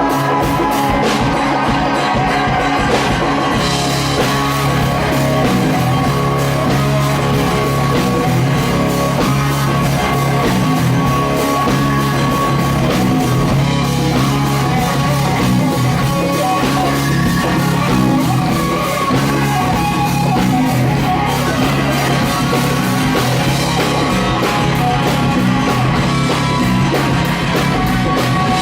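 Live rock band playing loud and steady: electric guitars, bass and drum kit.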